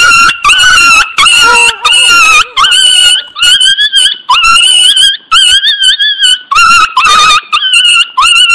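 A dog whining and crying over and over, about a dozen loud high-pitched cries roughly one every 0.7 s, each sliding up at the start and then wavering. The cries cut off sharply near the end.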